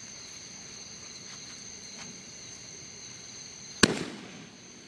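Crickets chirring steadily, then a single sharp firework bang about four seconds in that fades out over half a second.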